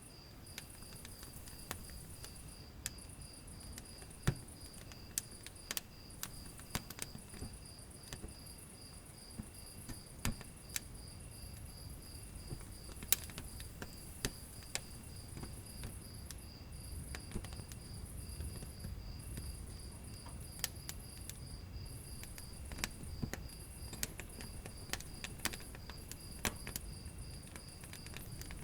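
Wood fire in a fireplace crackling, with irregular sharp pops over a low rumble of the flames. A steady, evenly pulsing high-pitched chirp runs underneath.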